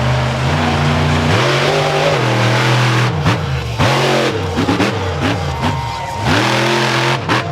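Monster truck engine revving hard, its pitch climbing and dropping back several times as the throttle is worked.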